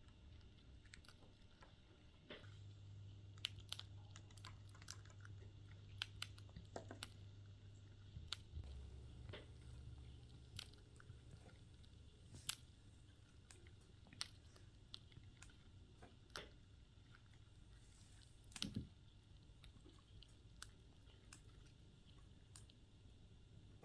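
Faint, irregular small clicks and crunches from a budgerigar's beak, over a low steady hum.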